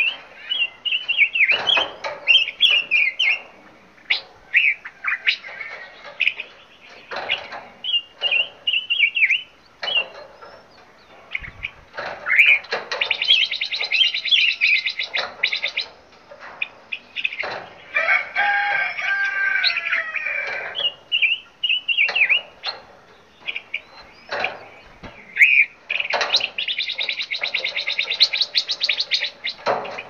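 Several songbirds chirping and singing over one another: short chirps and whistled glides, broken by two long runs of fast trilled notes.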